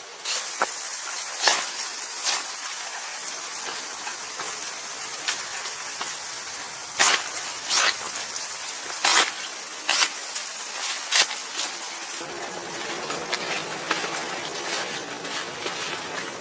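A steady hiss with irregular sharp clicks and snaps scattered through it, about a dozen in all.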